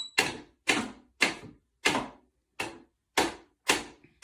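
Pet bird knocking or banging hard and repeatedly on a hard surface, about two sharp knocks a second in an even rhythm, in what the owner treats as a tantrum.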